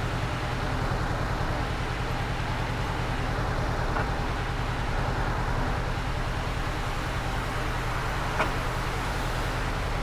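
Honda Rebel 500's parallel-twin engine running steadily at an even pitch, under road and traffic noise. Two brief clicks come about four seconds in and just past eight seconds.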